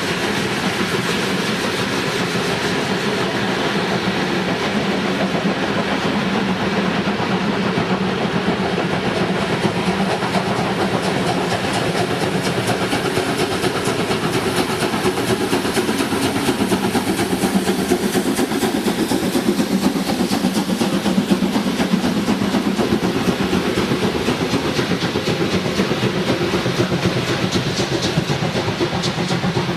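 A train running on the rails with a continuous clatter of wheels, growing a little louder in the middle.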